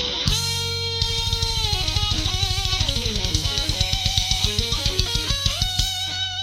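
Instrumental rock music: an electric guitar holds a note with vibrato, then plays a fast descending run before settling on a new held note, over rapid kick-drum beats at about eight a second.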